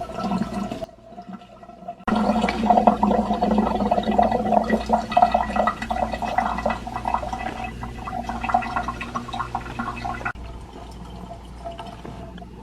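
Water rushing and gurgling down an ice machine's drain line as it drains freely, over a steady hum. It dips briefly about a second in, runs loudest from about two seconds until near the end, then falls quieter.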